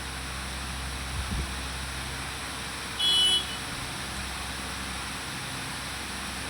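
Steady low background hum with a brief thump about a second in, then a short high-pitched beep about three seconds in.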